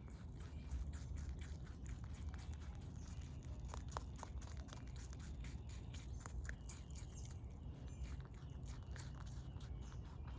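Rabbit chewing close to the microphone: a quick, uneven run of small crunching clicks over a steady low rumble.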